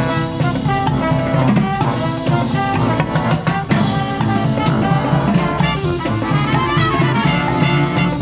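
A live brass band with a drum kit playing an upbeat jazz tune, horns over a steady beat.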